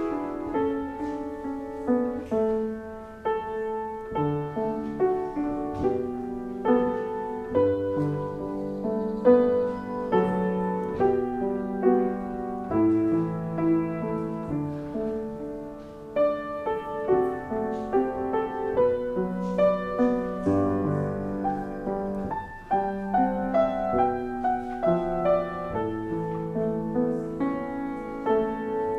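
Solo piano playing a slow, gentle piece, with struck notes and chords sounding continuously.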